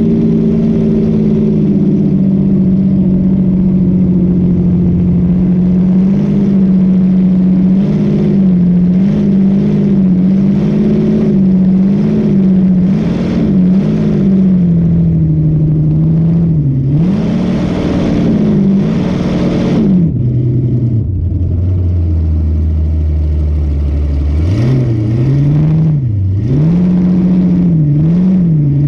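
Boat engine running hard, its pitch swaying up and down again and again. A few seconds past the middle it drops to a low, steady idle for a few seconds, then rises and keeps swaying.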